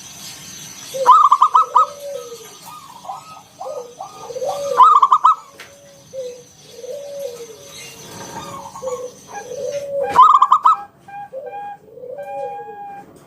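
Zebra dove (perkutut) cooing song. Loud, quick rattling phrases come three times, about a second in, near the middle and about ten seconds in, over lower rising-and-falling coos repeated every second or two.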